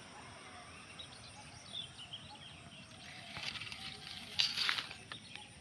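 Outdoor ambience with a few faint bird chirps, then a stretch of rustling and crinkling from about three seconds in, loudest a little past the middle, as litter and plants are handled.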